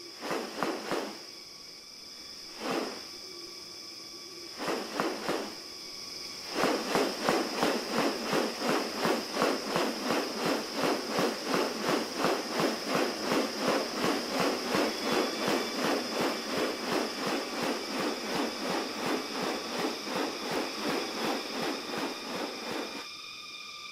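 New Guinea rainforest ambience: a steady high-pitched insect buzz, with a few short separate sounds at first, then a long run of rapid rhythmic pulses, about two or three a second, lasting most of the rest.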